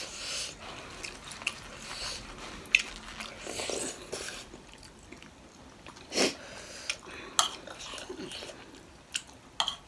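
Close-miked eating of steamed momo dumplings with sauce: wet chewing and mouth sounds. Spoons and forks click against the plates now and then.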